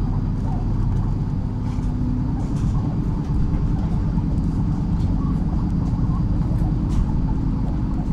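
MAZ-103 city bus under way: a steady, even drone of its engine and running gear, with a few faint clicks and rattles.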